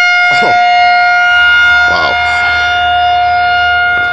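Outdoor warning siren sounding a loud, steady single-pitch tone, likely a storm-warning siren test. Two short falling sweeps cut across it, about half a second in and again about two seconds in.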